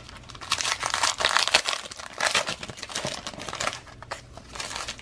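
Foil baseball card pack wrapper crinkling and tearing as it is ripped open, loudest in the first two seconds and tapering off after about four.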